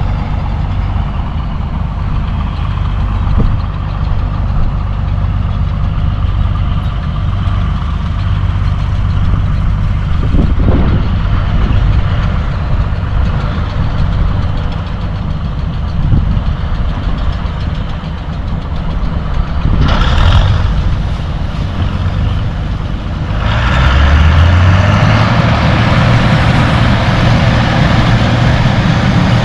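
Gleaner L2 combine harvester running with a steady low engine drone. About three-quarters of the way through, the engine note rises and holds higher, and the rushing machine noise over it grows louder.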